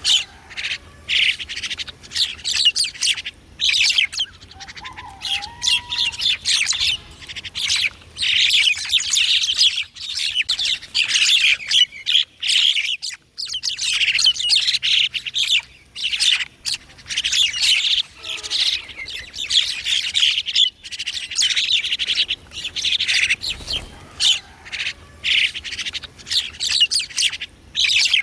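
Many small songbirds chirping at once in a dense chorus of quick, high chirps, thinning out briefly about halfway through, with an occasional lower short call.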